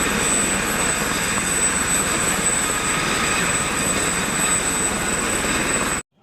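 Steady helicopter engine and rotor noise, with a thin high whine, that starts and cuts off abruptly like an edited-in sound effect.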